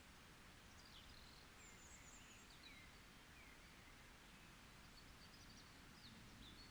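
Faint birdsong: scattered short high chirps and quick down-slurred notes from small songbirds, over a quiet steady background hiss.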